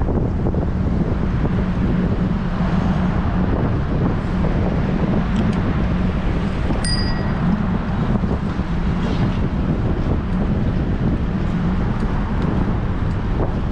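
Strong wind buffeting an action camera's microphone on a moving bicycle, a steady rushing noise. About seven seconds in, a single short bell ding rings out.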